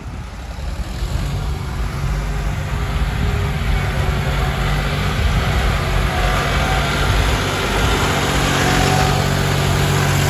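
Hino Mega 175 hp six-wheel truck's diesel engine, remapped, running hard under load as the truck struggles in mud. It builds over the first couple of seconds, then holds loud and steady.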